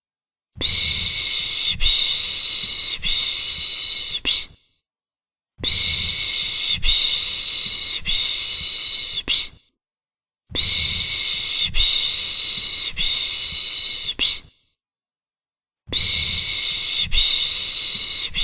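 Rhythmic 'piş piş' shushing used to soothe a baby: a hissing 'shh' in runs of about four strokes, each run about four seconds long. The runs repeat with about a second of silence between them.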